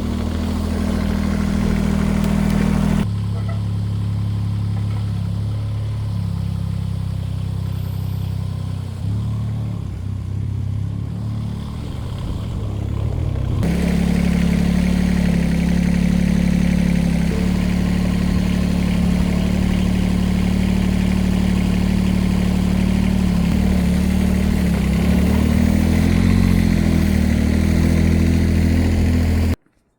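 Diesel tractor engine running steadily, its pitch wavering briefly near the end as the engine speed changes. The sound shifts abruptly twice and cuts off sharply just before the end.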